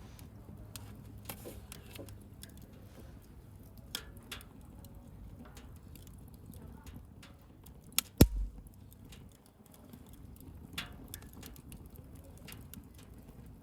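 Wood fire crackling, with scattered sharp pops over a low steady rumble. About eight seconds in comes a loud sharp pop, then a second one with a brief low thump.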